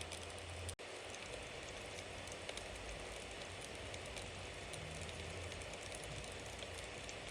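Campfire burning with a steady hiss and scattered small crackles and pops, over a low rumble; the sound drops out for an instant a little under a second in.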